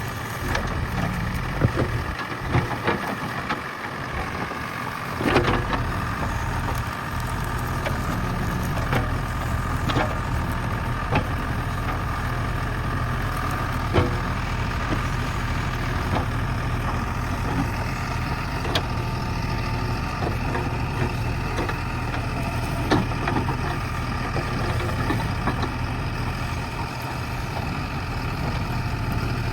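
JCB backhoe loader's diesel engine running steadily, with scattered sharp knocks and cracks, the loudest about 5, 14 and 23 seconds in, from the machine working soil and brush.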